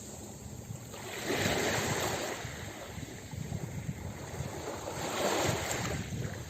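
Ocean waves breaking and washing up a beach. There are two surges of surf: the first swells about a second in, and the second peaks near the end.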